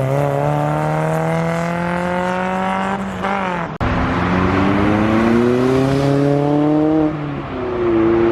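A car engine accelerating hard under load, its pitch climbing steadily, dropping about three seconds in, then climbing again and dropping near the end, like upshifts through the gears.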